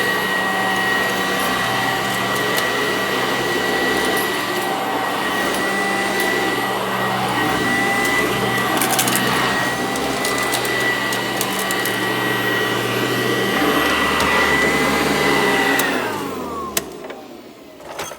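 Sanitaire SC886 upright vacuum cleaner running steadily with a constant high whine. About sixteen seconds in it is switched off, and the motor winds down with a falling whine. A few sharp clicks follow near the end.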